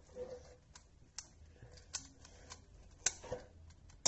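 Plastic pieces of a Megaminx puzzle cube clicking as it is taken apart to reach the core: a handful of faint, sharp clicks spaced about half a second to a second apart, the sharpest about three seconds in.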